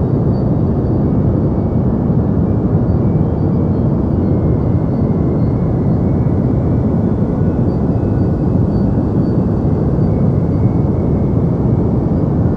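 Steady deep white noise, a continuous hiss weighted toward the bass that sounds like a dull rumble, unchanging throughout.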